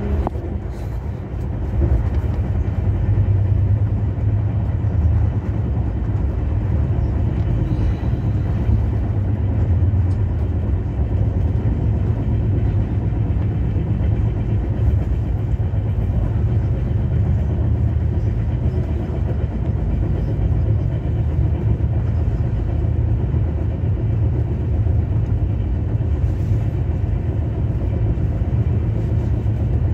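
Passenger train running at speed, heard from inside the coach: a steady low rumble of the wheels on the track.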